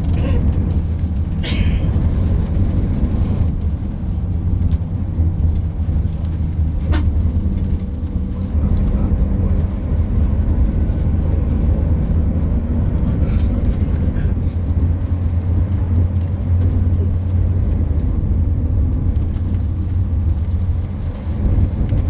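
Steady low rumble of a vehicle on the move, heard from inside, with a few faint knocks and rattles.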